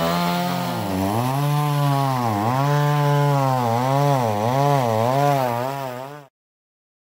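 Two-stroke chainsaw running at high revs, its engine pitch dipping and climbing back again and again, the dips coming faster toward the end, then cutting off abruptly about six seconds in.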